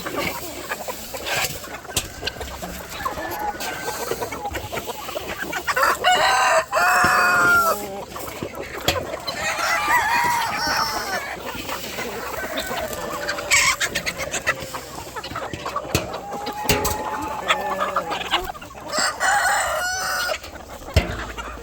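Free-range chickens clucking, with roosters crowing several times, the loudest crows about six, ten and nineteen seconds in.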